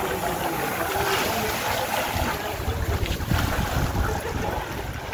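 Wind buffeting the microphone over a low rumble and the wash of moving water.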